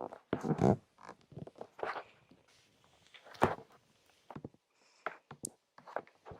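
Ear-massage ASMR: hands rubbing, pressing and tapping on a microphone's ears, in irregular soft swishes with short thumps and clicks, loudest about half a second in and again around three and a half seconds.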